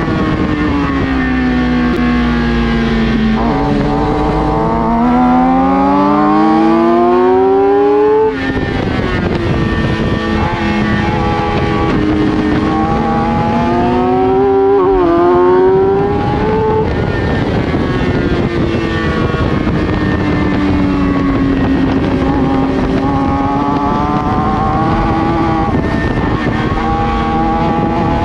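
Racing sportbike engine at speed, its pitch repeatedly climbing under acceleration and falling away as the throttle closes, with a sudden break in the sound about eight seconds in.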